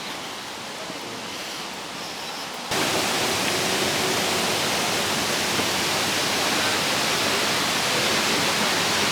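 Steady rushing roar of Multnomah Falls, a large waterfall, which jumps suddenly much louder about three seconds in and then holds steady.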